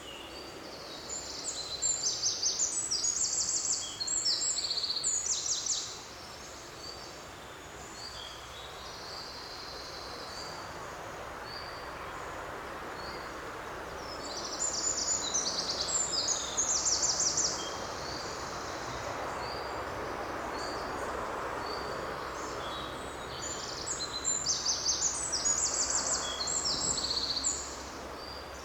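Songbird singing in three bouts of quick, high notes over a steady background hiss of forest ambience.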